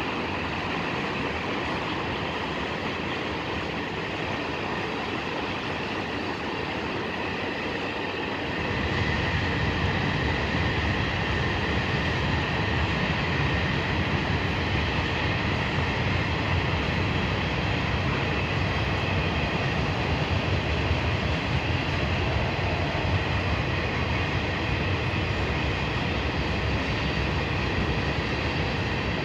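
Train rolling past on the tracks: a steady noise of wheels and cars on the rails, with a heavier low rumble coming in about eight seconds in and holding.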